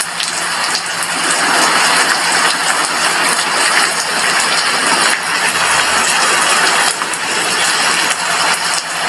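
Heavy rain falling steadily against a glass window, a dense even hiss of drops.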